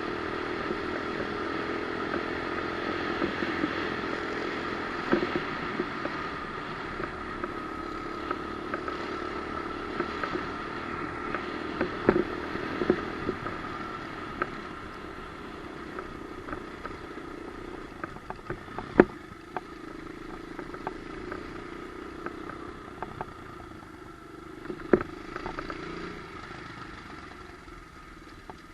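Pit bike engine running steadily, with scattered sharp clattering knocks. It grows fainter toward the end.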